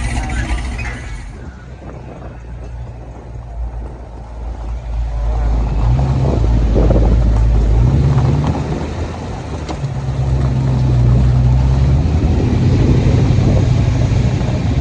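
Deep low rumble from a car. It swells louder about halfway through and holds, with its pitch shifting in steps.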